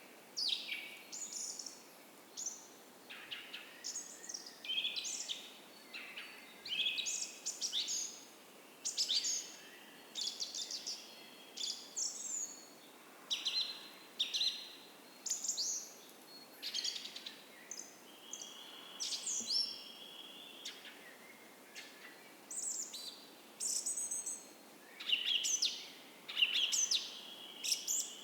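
Several songbirds of a dawn chorus singing, a steady run of short chirps and trills with an occasional longer held whistle, over a faint background hiss.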